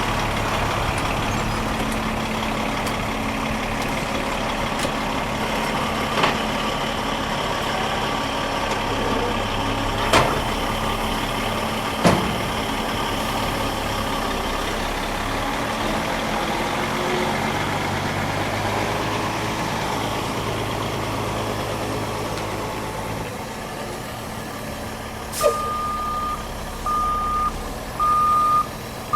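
Semi-truck tractor's diesel engine running steadily, with a few sharp clicks. Near the end the truck's reversing alarm starts beeping, about one beep a second, as the tractor backs up.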